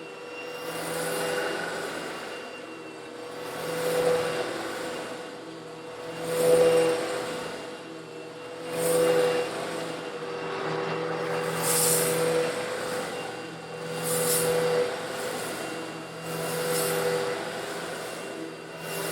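Eureka vacuum cleaner running with a steady motor hum while sucking up small coarse stone granules. The sound swells and fades every two to three seconds, with a bright, gritty hiss at the loudest swells as the granules are drawn in.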